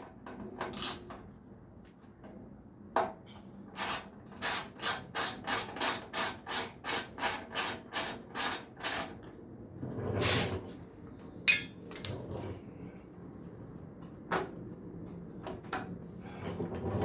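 Hand tools working the exhaust fasteners on a Harley-Davidson Sportster S: a steady run of sharp clicks, about two or three a second, typical of a ratchet being worked. A scrape and a single sharp knock follow.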